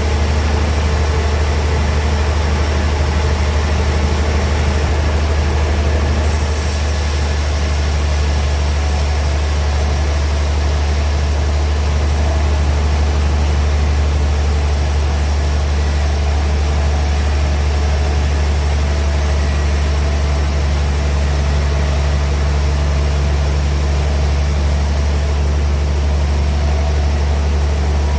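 Large band sawmill machinery running steadily with a loud low hum; a high hiss gets stronger about six seconds in.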